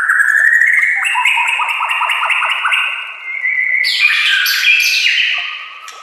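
White-rumped shama (murai batu) singing a loud, fast, varied song made of runs of rapidly repeated notes that step from one pitch to another, with a louder, higher run about four seconds in.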